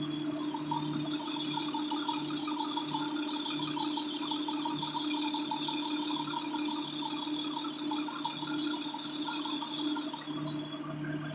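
Garbage truck engine running steadily with a low hum and a continuous rattle.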